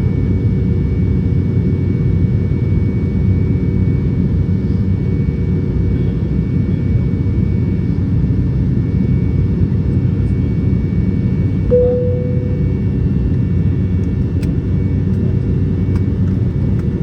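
Steady cabin roar of an Embraer E195 airliner in flight after takeoff: an even, deep rumble of engines and airflow with a faint steady whine above it. About twelve seconds in, a single short tone sounds and fades.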